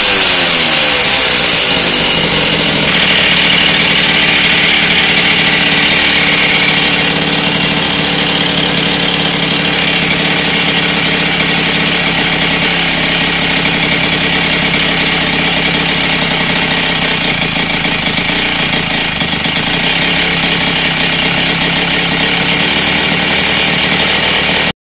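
Polini Evolution two-stroke moped engine running: its revs fall right at the start, then it holds a steady idle. It is mid-adjustment and, by the owner's account, not yet running right.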